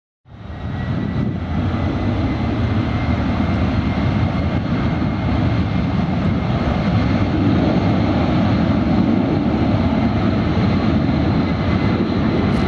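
Jet airliner engines running loud and steady, a deep roar with a thin high whine on top; the sound cuts in abruptly just after the start.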